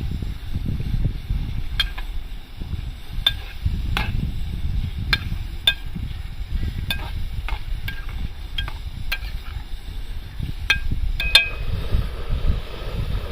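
A metal spoon clinking against a cooking pot while food is stirred: about fifteen sharp, ringing clinks at irregular intervals, over a steady low rumble.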